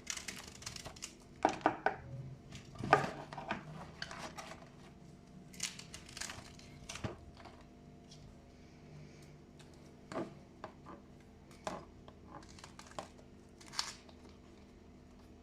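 Kitchen food-preparation handling: irregular rustling, crinkling and light clicks and knocks, busiest and loudest in the first few seconds, then sparser.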